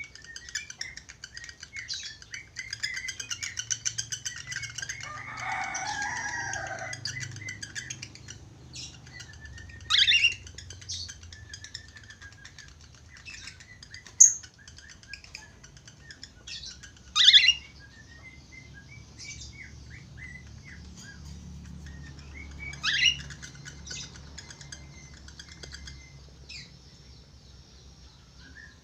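Budgerigars chattering and warbling continuously in high twittering phrases, with a lower warbling run a few seconds in and three loud, short, shrill calls spread through.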